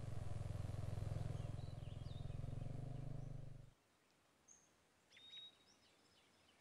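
A low, steady, pulsing drone that cuts off suddenly a little past halfway, with birds chirping in short high calls, loudest just after the drone stops.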